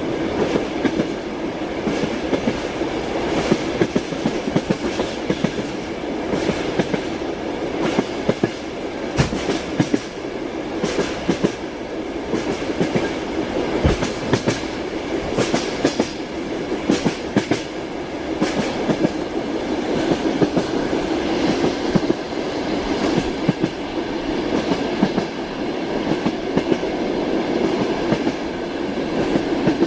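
Train wheels clicking over rail joints under a steady rumble, heard from inside a moving railway carriage, with irregular sharp knocks.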